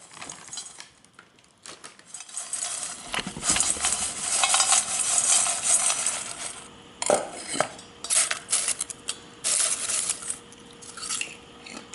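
Freshly popped kettle corn being stirred and scooped in a bowl: rustling in uneven bursts with sharp clicks.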